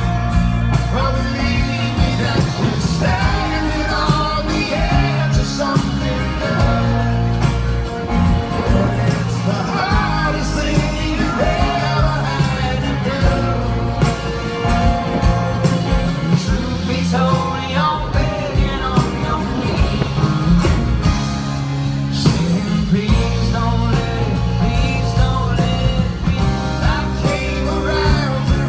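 Live rock band playing, with singing over a steady bass and drum backing.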